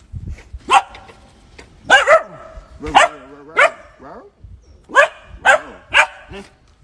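A dog barking in short, loud barks, about eight of them in two runs with a brief pause in between.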